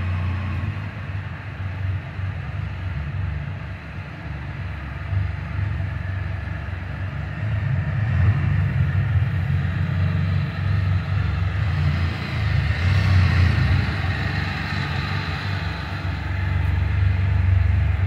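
Can-Am Spyder three-wheeled motorcycle's engine running as it is ridden and manoeuvred, echoing in a concrete parking garage. It gets louder about halfway through.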